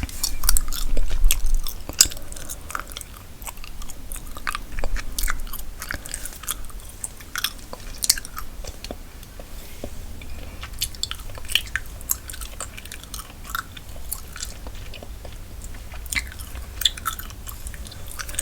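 Gum chewed close to a sensitive microphone: irregular wet clicks and smacks of the mouth and gum, louder for a moment about a second in.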